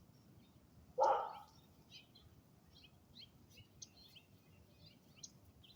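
Small birds chirping on and off, with one short, louder sound about a second in.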